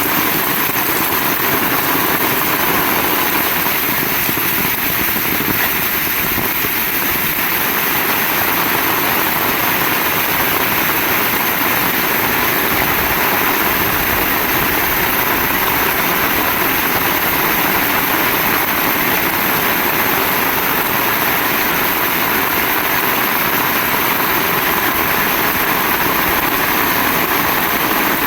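Heavy rain falling steadily: a dense, unbroken hiss with no let-up.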